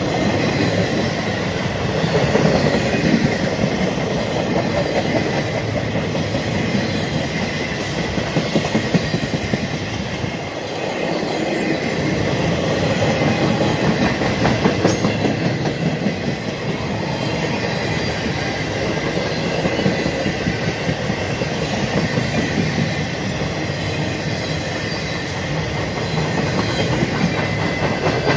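Loaded flatcars of a CSX freight train rolling past close by: a steady rumble and clatter of steel wheels on the rails.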